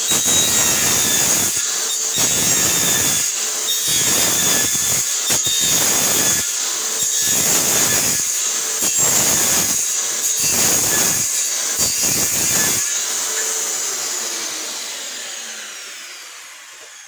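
Electric power saw cutting wood in a series of short passes: a steady high motor whine with rough cutting noise coming and going about eight times, then the blade coasts down, falling in pitch and fading, from about 13 seconds in. The blade is a little dull, enough to make some smoke.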